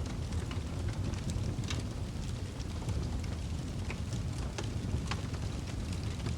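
Wood fire crackling in a fireplace: a steady low rumble of flames with frequent sharp pops and snaps scattered irregularly throughout.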